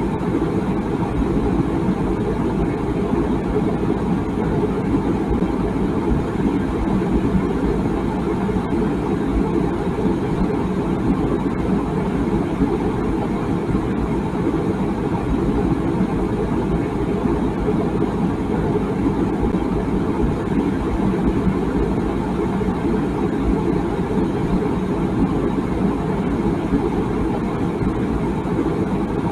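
Water boiling in a tea kettle: a steady, low rushing noise with no whistle.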